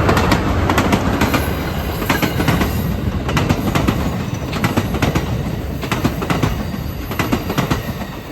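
Amtrak San Joaquin passenger train passing close by: a steady rumble with groups of sharp clicks as the wheels cross rail joints.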